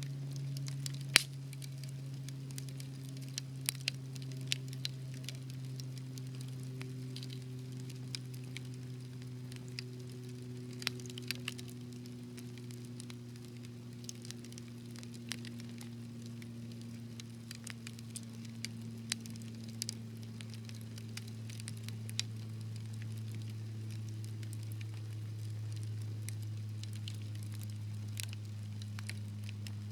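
Wood fire crackling in a fireplace: irregular sharp pops and snaps, the loudest about a second in, over a steady low hum that slowly sinks in pitch.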